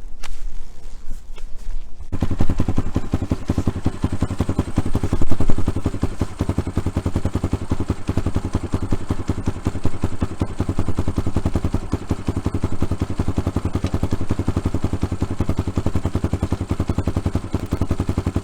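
Kayo dirt bike's single-cylinder four-stroke engine catching about two seconds in, then idling with rapid, even exhaust pulses. It is revved briefly twice in the first few seconds of running.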